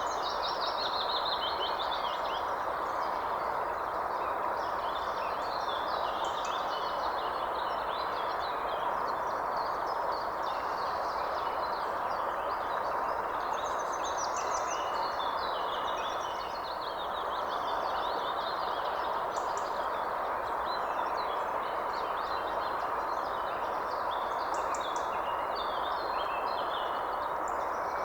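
Many birds chirping and trilling over a steady rushing background noise.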